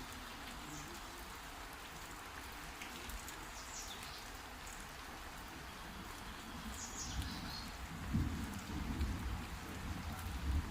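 Steady hiss of heavy rain falling. Two short high chirps come through it, and low rumbling thumps build up in the second half.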